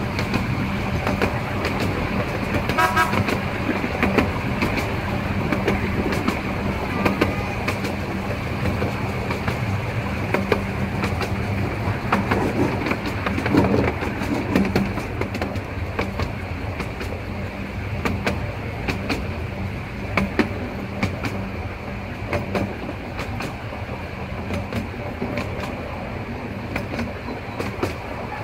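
Miniature railway train running along the track, heard from the open carriage: a steady low hum with frequent clicks from the rails and wheels. A brief pulsing high note sounds about three seconds in.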